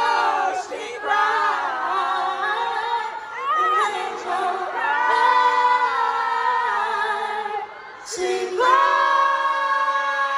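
Live a cappella singing: a female lead voice over layered backing voices in held, sustained harmonies, with a brief break about eight seconds in before the chord comes back.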